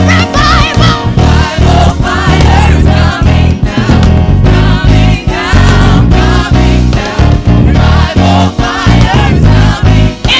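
Live gospel praise-and-worship music: voices singing over a full band with a heavy, pulsing bass.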